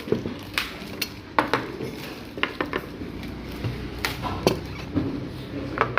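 Cutlery clinking against dishes: about ten sharp clinks at uneven intervals, some ringing briefly.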